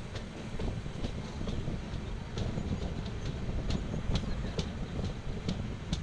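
Passenger train running at speed, heard from inside a coach at an open window. The wheels make a steady low rumble on the rails, with short sharp ticks about twice a second.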